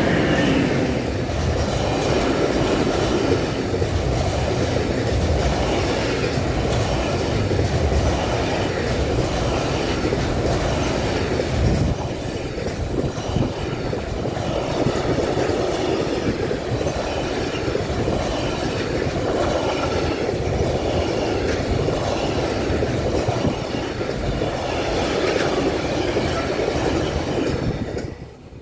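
An electric locomotive passes at the start, then a long container freight train rolls past close by. The wagon wheels clatter and rumble on the rails, swelling and easing as each bogie goes by, and the sound fades away as the last wagon clears near the end.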